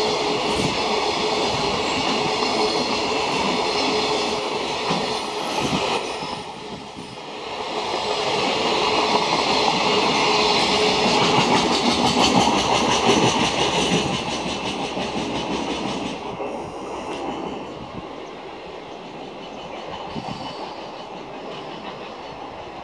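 Freight train hauled by an EF210 electric locomotive rolling through, its wheels clattering over the rail joints with a thin wheel squeal. The noise dips briefly, swells again, then eases off gradually over the last several seconds as the train goes by.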